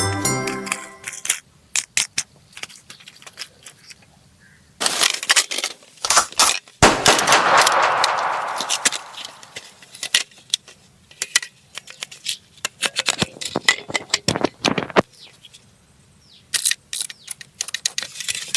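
Plastic toys and packaging being handled: irregular clicks, rattles and crinkling, with a longer, denser rustle lasting a few seconds in the middle.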